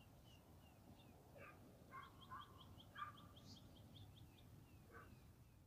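Faint birds calling: scattered short chirps, with a quick run of repeated high notes for about two seconds midway.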